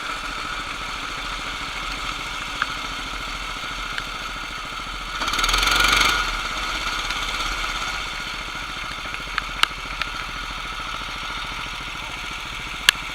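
Kart engines running at the track, steady, with one coming through louder about five to six seconds in, and a few sharp clicks.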